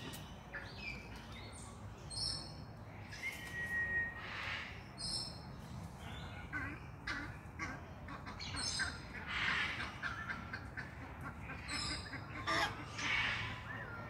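Bird calls: a high call made of several stacked tones repeats four times, about every three seconds, with shorter chirps between, over a steady low rumble.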